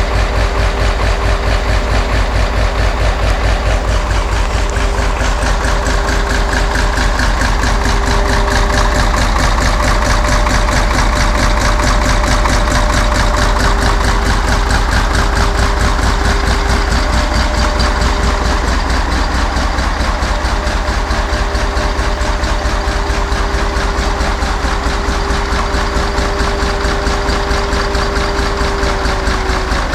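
Freshly rebuilt six-cylinder Eicher diesel engine idling steadily, running again after a fire and years standing still. A steady whine sits over the even engine beat and drops slightly in pitch near the end.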